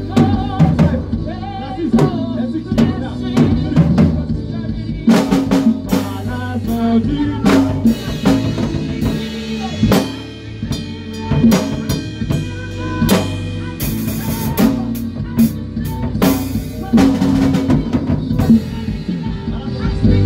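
A band playing in rehearsal: a drum kit with kick, snare and rim hits, over sustained bass notes and other instruments.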